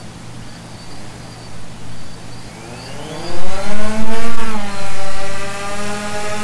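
DJI Phantom 2 quadcopter's electric motors and propellers spinning low, then throttled up for takeoff about two and a half seconds in: a rising whine that turns loud, eases slightly and settles into a steady buzz.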